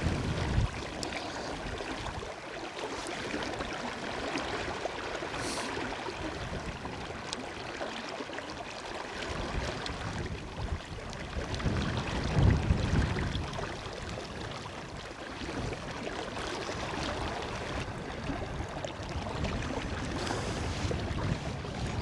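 River water rushing steadily over a shallow riffle, mixed with wind buffeting the microphone in low rumbling gusts, strongest about twelve seconds in.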